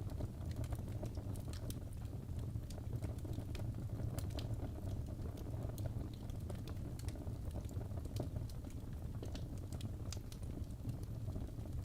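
Wood fire burning in a fireplace: a steady low rumble of flames with frequent small crackles and snaps of burning logs.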